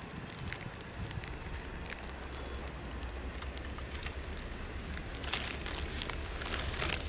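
Wind-blown snow hitting the microphone: a noisy hiss full of scattered crackling ticks, over a low steady rumble that slowly grows louder toward the end.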